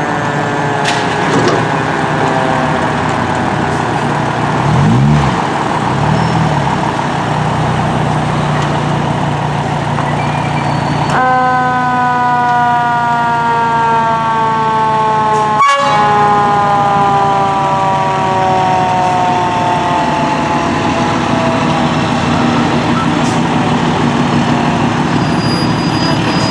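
Fire engine siren whose pitch falls slowly over many seconds, then sounds again suddenly about eleven seconds in and falls once more, over the steady running of the truck's engine.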